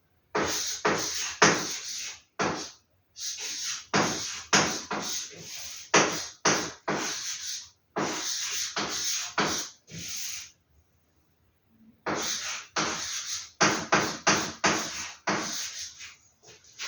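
Paper posters and their packaging being handled and sorted, rustling and rubbing in a quick run of short scrapes and crinkles, with a pause of about a second and a half in the middle.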